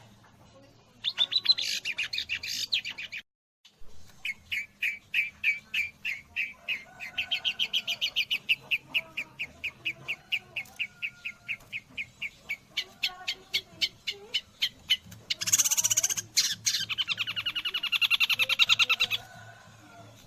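Long-tailed shrike, its song trained on white-rumped shama phrases, singing. A short harsh burst is followed by a long run of rapid repeated notes, about four or five a second, and then a loud, dense, scratchy passage near the end.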